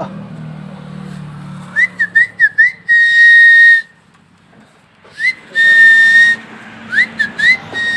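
Whistling in three phrases, each a run of quick rising chirps ending in one long, level note, about a second and a half apart.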